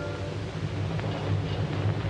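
Low, steady rumbling noise, a film sound effect of the earthquake, as the background music fades out at the start.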